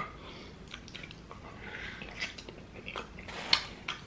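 Close-miked mouth sounds of a person chewing food: wet chewing and lip smacks with scattered clicks, and a louder smack about three and a half seconds in.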